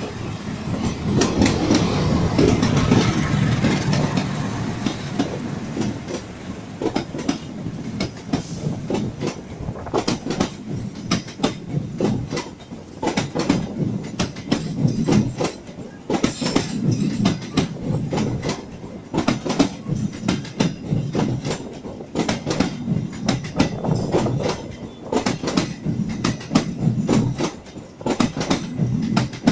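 A CC206 diesel-electric locomotive passes close by during the first few seconds with a heavy rumble. A long train of passenger coaches then rolls past with a steady clickety-clack of wheels over the rail joints.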